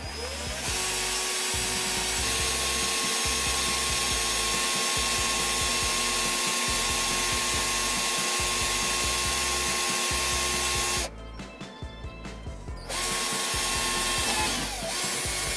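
Electric drill running steadily with a small twist bit boring through a steel bolt held in a vise. It stops about eleven seconds in, starts again about two seconds later, and winds down near the end.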